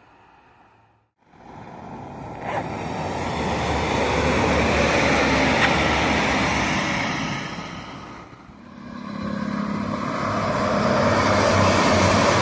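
Diesel passenger train passing close by, a loud steady rush of wheels and engine noise. It starts suddenly after about a second of near silence, dips briefly about two-thirds of the way through, then swells again with a low hum underneath.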